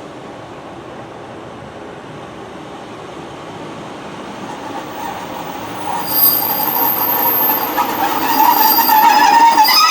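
Train drawing near on the rails, its rumble growing steadily louder. From about six seconds in, a high metallic wheel squeal sets in, holding several shrill tones.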